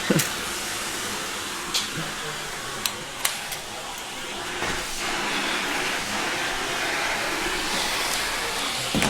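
Vacuum cleaner running steadily, with a few short sharp knocks about two and three seconds in.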